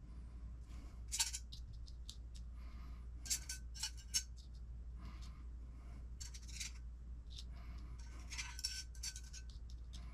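Small hard parts and tools clicking and clinking while an RC car kit is assembled by hand, in irregular clusters of short taps with a slight metallic ring, over a steady low hum.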